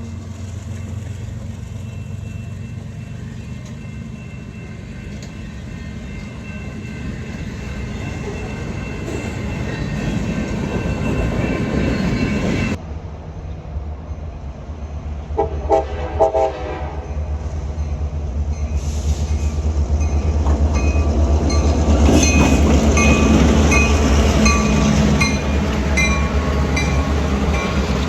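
Trains passing on the track: a steady locomotive engine rumble builds, then breaks off abruptly. A brief burst of horn follows, then another passing train's rumble with wheels clattering on the rail joints grows loud near the end.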